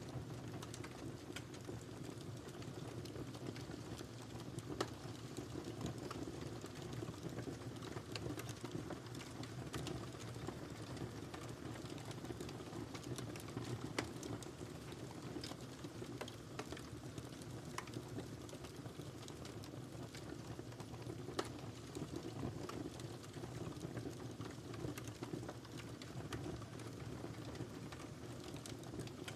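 Wood fire burning in a fireplace: a steady low hiss with scattered sharp crackles and pops, a few louder snaps standing out.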